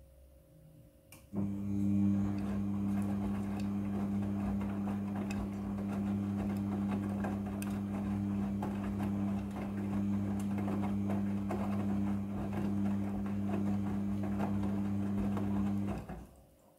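A machine hums steadily, starting suddenly about a second in and stopping near the end.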